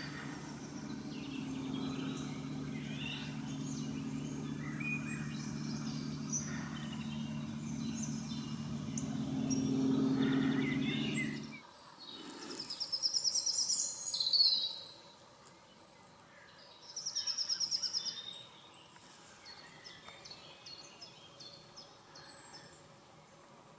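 Several songbirds singing, with two loud, rapid, high trills in the second half. A steady low hum underlies the first half and stops abruptly.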